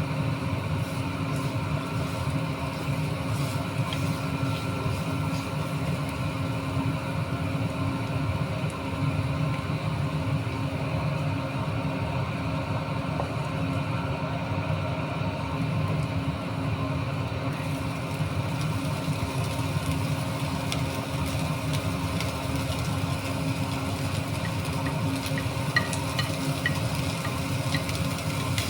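A steady low mechanical hum, with faint sizzling of food frying and a few light clicks near the end.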